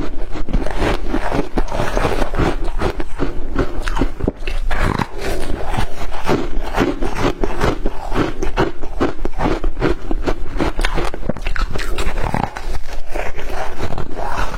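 Close-miked chewing of shaved ice: a dense, continuous stream of crisp crunches, several a second, with brief lulls about four seconds in and again near the end.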